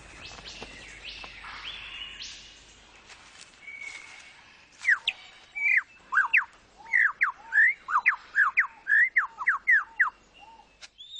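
Superb lyrebird singing: a fast run of loud, clear whistled notes that sweep up and down, about two a second, starting about five seconds in. Softer scattered bird whistles come before it.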